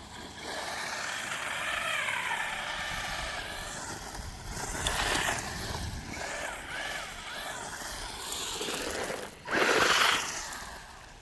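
Electric motor of a WLtoys RC car whining as it drives, its pitch rising and falling with the throttle, with a quick repeated up-and-down wobble partway through. A louder rush of noise comes near the end.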